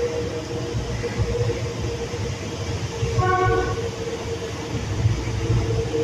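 Docklands Light Railway train running past a station platform with a steady low rumble and a steady hum. A short horn note sounds about three seconds in.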